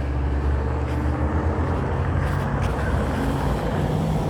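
Road traffic: a motor vehicle's engine running close by as a steady low drone.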